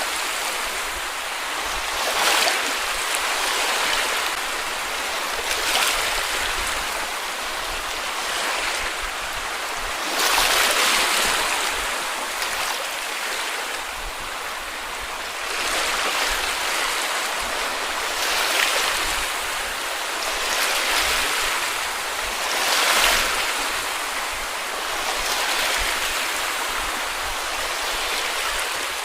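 Small sea waves washing onto a beach: a steady rush of water that swells every few seconds, at irregular intervals, as each wave breaks and runs up, then fades back.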